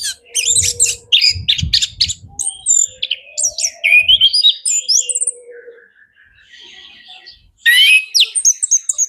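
Orange-headed thrush singing a fast, varied song of sharp chirps, trills and gliding whistles, full of mimicked phrases. The song softens briefly about two-thirds of the way through, then bursts back loud near the end. Some low thuds sound in the first two seconds.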